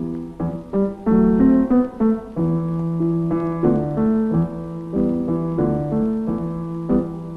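Piano playing alone with no voice: slow chords and melody notes over held bass notes, in the instrumental close of a Russian romance.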